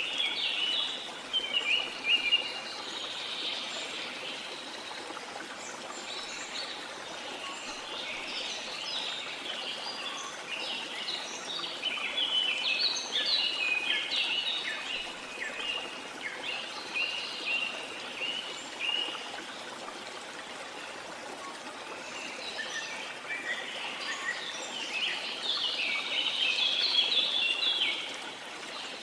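Several birds chirping and singing in quick, repeated phrases over the steady rush of running water, with the birdsong coming in bouts.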